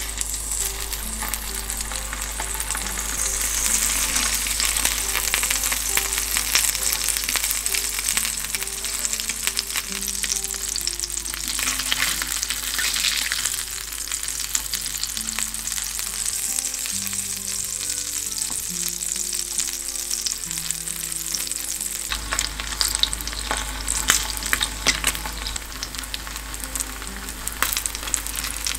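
Slices of Spam frying in cooking oil in a flat pan, a steady crackling sizzle.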